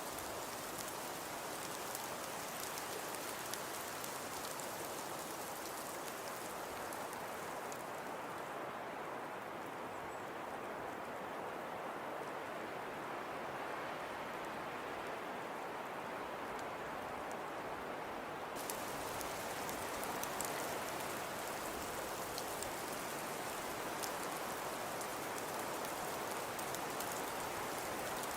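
Snowfall ambience: a steady hiss of fine, rain-like pattering on a surface. About a third of the way in, the bright top of the hiss and the small ticks fall away, leaving a duller rush, and they come back about two-thirds through.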